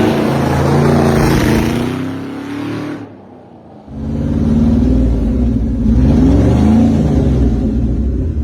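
Citroën GT's V8 engine accelerating hard, its note rising through the revs. About three seconds in the sound drops away for most of a second, then comes back and climbs again.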